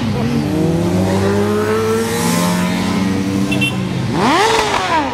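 Motorcycle engine running at low revs and slowly picking up, then a quick blip of the throttle about four seconds in that rises sharply and drops back.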